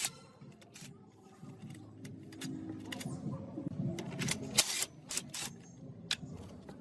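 Irregular sharp clicks and clinks of metal tools and parts being handled, a few loud ones bunched together about two-thirds of the way in, over a faint low background.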